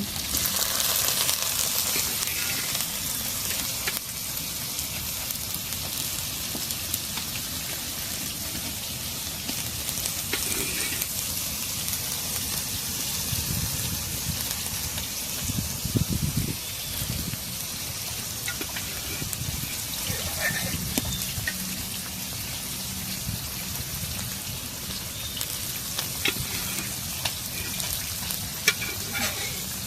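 Food frying in a large tacho pan over a wood campfire: a steady sizzle that is loudest in the first few seconds after the drained food goes in.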